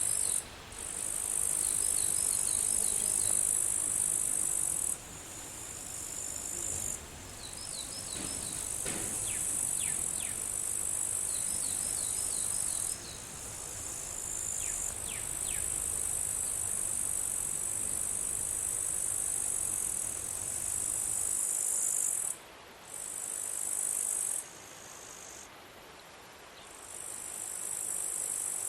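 Insects trilling in a dense, very high, steady buzz that stops and restarts abruptly several times. Short runs of quick chirps at a lower pitch come now and then in the first half.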